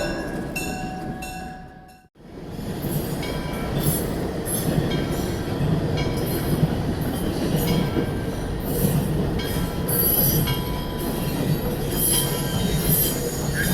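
A horn dies away, then after a cut a train rolls along the track with a steady rumble, its wheels squealing against the rails at irregular intervals.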